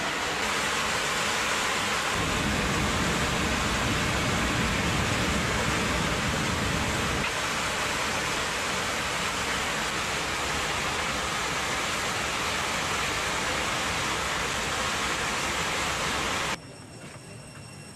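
Loud, steady rush of air inside an airliner cabin, typical of air roaring through a hole blown in the fuselage by a bomb, with a deeper rumble for a few seconds early on. It cuts off suddenly near the end, leaving a much quieter hiss.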